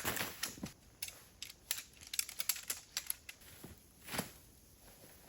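Handling noises from pitching a tent: a string of short, irregular clicks and brief rustles from the tent fabric and poles being worked by hand.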